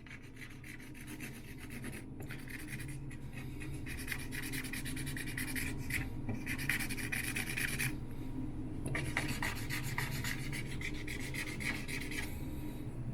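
Furniture scratch-repair marker rubbed rapidly back and forth over a worn wooden desktop: a dry scratchy rubbing in fast strokes. It stops briefly about two, six and eight seconds in.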